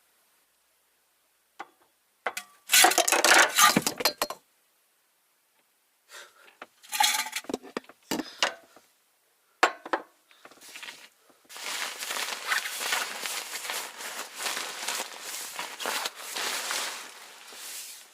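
Camp cookware and utensils being handled, with sharp clinks and clatter in short bunches. A longer, steady noisy stretch follows from about two-thirds of the way in.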